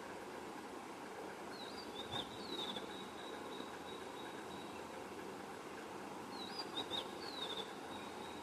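A songbird singing the same short phrase of quick gliding whistled notes twice, about five seconds apart, over a steady background hum and hiss.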